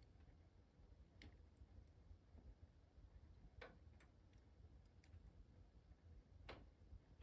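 Wood fire in a fireplace crackling faintly: scattered, irregular pops and ticks, the strongest about a second in, mid-way and near the end, over a low rumble.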